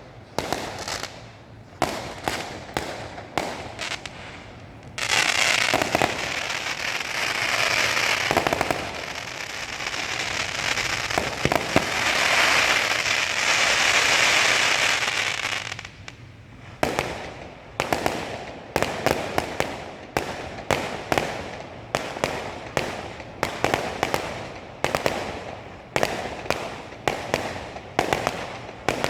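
Fireworks display: separate sharp bangs, then about ten seconds of dense continuous crackling, then a rapid run of sharp reports several times a second.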